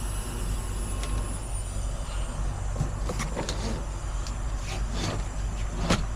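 Heavy diesel truck engine idling steadily, with a few sharp metallic clicks and knocks in the second half, the loudest about six seconds in.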